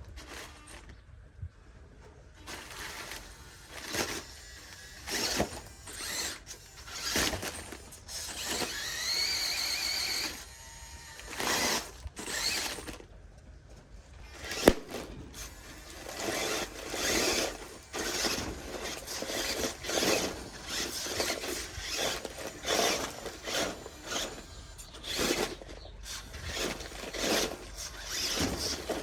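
RC truck's motor and gears whining in short bursts of throttle as it climbs over dirt, with tyres scrabbling; about eight seconds in the whine rises in pitch for a couple of seconds, and later comes in quick, repeated pulses.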